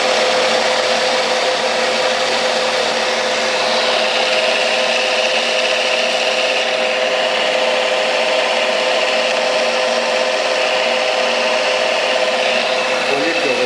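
Metal lathe running with a cutting tool feeding along a turning metal part: a steady hiss with a constant hum and a faint high whine.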